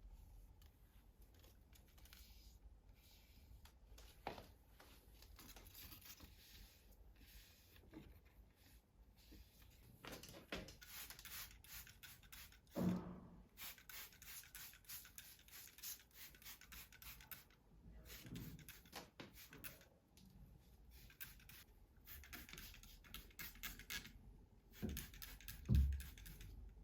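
Quiet scratchy rubbing strokes in quick runs, with a soft thud about halfway through and a louder one near the end.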